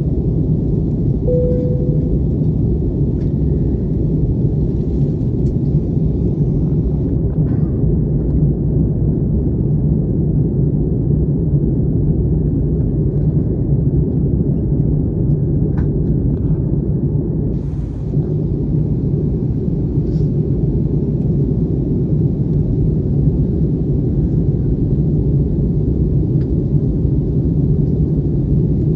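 Steady low rumble of an Airbus airliner's cabin in flight: engine and airflow noise, with a short tone about a second and a half in.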